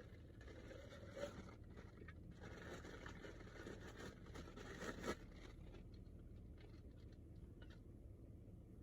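Faint rustling and scraping of small objects being handled and unwrapped, with a sharper click about five seconds in, then only a few faint ticks.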